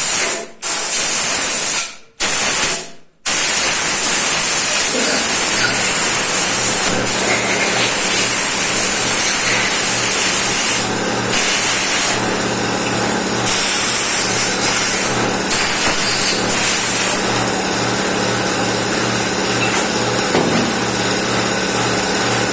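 Compressed-air blow gun hissing as it blows dust out of engine part passages, released and restarted three times in the first few seconds, then held on. A steady pulsing motor hum joins about five seconds in.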